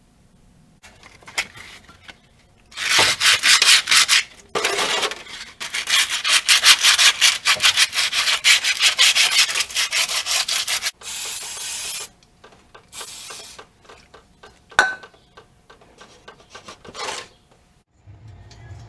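Rapid back-and-forth hand scrubbing strokes in two long spells of several seconds each, then a few lighter, scattered scrapes and a single sharp knock.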